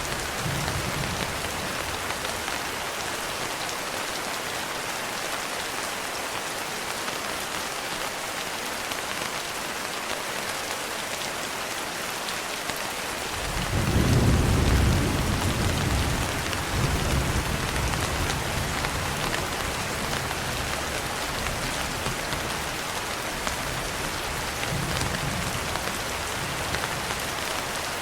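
Steady rain falling, an even hiss, with a roll of thunder about halfway through that swells quickly and rumbles on for several seconds before fading back under the rain.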